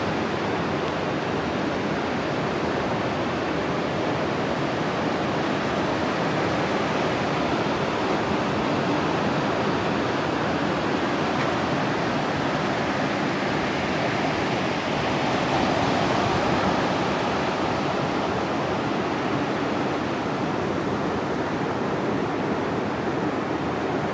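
Sea surf washing onto the shore: a steady rush that swells slightly in the middle.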